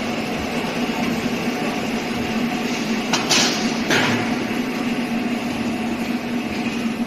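Hydraulic deep drawing press running with a steady hum from its hydraulic power unit. About three seconds in there is a short hiss, then a sharp click.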